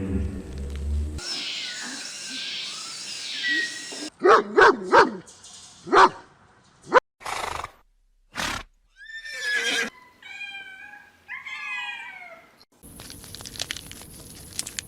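A series of separate animal calls, mostly neighs and whinnies: loud short calls in a quick cluster, single sharp calls, then a longer whinny that falls in pitch.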